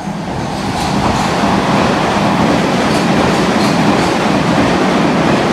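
London Underground Metropolitan line S8 Stock train running through the station: a loud, steady rumble that builds over the first second, with clicks in pairs as its wheels cross rail joints.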